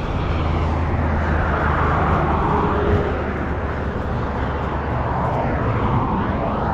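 Heavy truck engine running steadily: a constant low hum under a broad noise.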